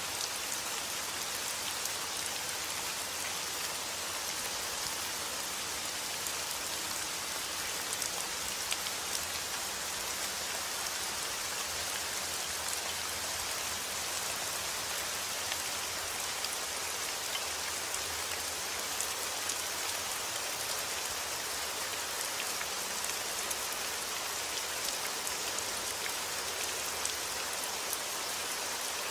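Heavy rain falling steadily outdoors, a dense even hiss with the patter of many individual drops.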